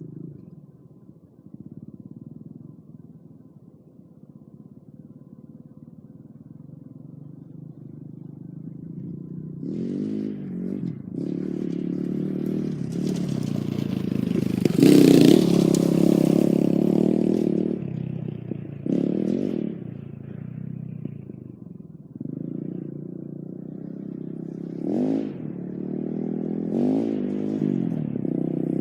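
Four-stroke 230cc dirt bike engine (MXR 230 KZR), running low and steady at first, then revving up and down repeatedly as it comes closer, loudest about halfway through.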